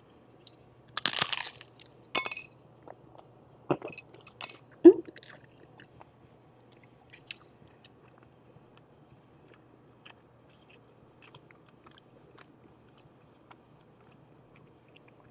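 Crunching bites into a crisp chip and chewing, several sharp crunches in the first five seconds, then only faint chewing.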